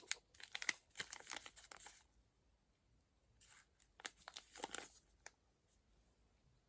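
Packaging crinkling and rustling as items are handled, in two short spells with a pause of about a second and a half between them.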